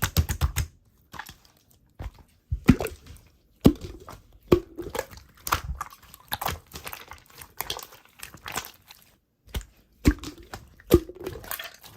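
Slime being squeezed and pressed by hand, giving irregular sharp pops, snaps and crackles, a few with a short dull ring.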